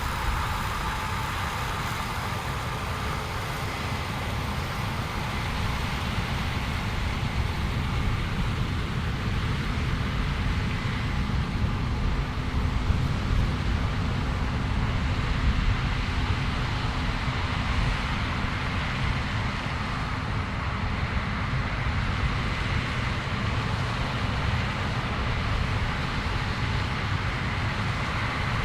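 Heavy farm machinery running steadily in the field, a low rumble with a faint steady whine over it.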